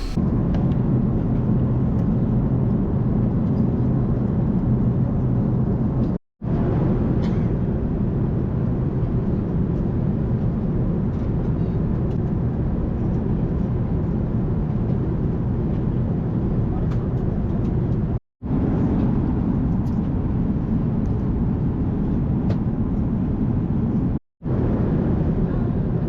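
Steady low cabin noise inside an Airbus A380 airliner: engine drone and rushing air. It is broken by three brief drops to silence.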